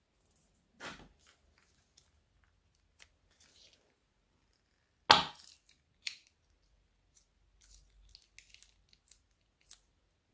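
Crisp snips and crackles of plastic bags being handled and cut for slime-making: scattered short clicks, with one loud sharp snap about five seconds in.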